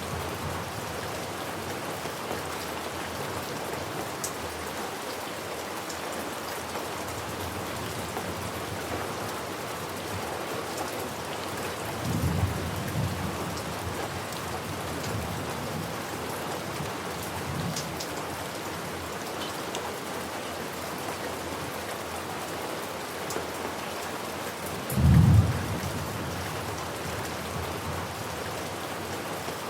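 Steady rain falling, with a low rumble of thunder about twelve seconds in and a louder, shorter rumble of thunder about twenty-five seconds in.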